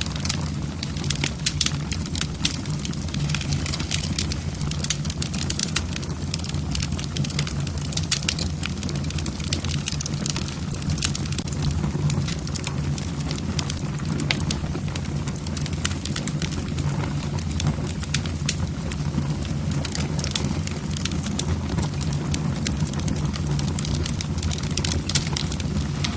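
Wood fire burning in a fireplace, the logs crackling with frequent irregular sharp pops over a steady low rumble.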